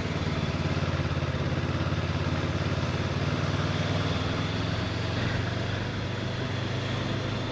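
Honda CB500X parallel-twin engine running at a steady cruise, with an even engine note and road noise throughout.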